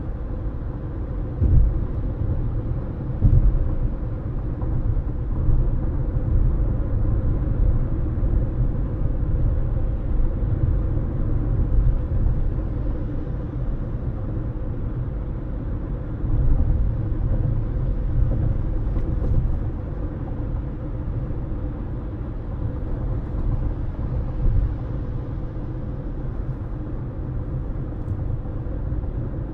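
A moving car's steady low road rumble of tyres and engine, with a few short bumps in the first few seconds and now and then after.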